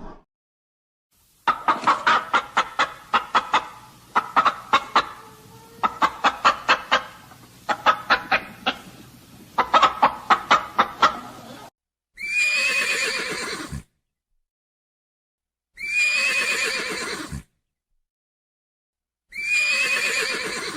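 Animal calls: six runs of rapid clucking pulses, about four to five a second. These are followed by three separate longer, harsh calls of about a second and a half each.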